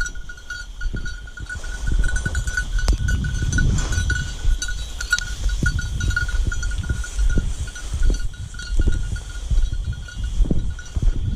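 A small bell on a working bird dog's collar jingling irregularly as the dog moves, over wind rumbling on the microphone.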